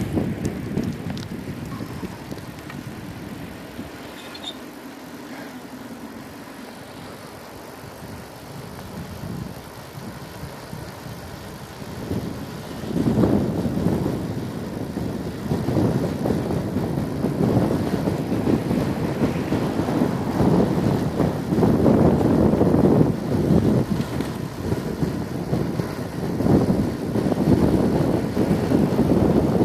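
Rumbling noise of a moving bicycle ride, wind buffeting the microphone over road and tyre noise, swelling and growing gustier about twelve seconds in.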